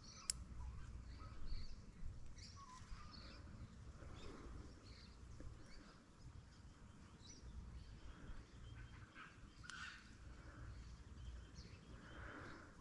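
Faint scattered bird chirps and calls over a steady low rumble, with a single sharp click just after the start.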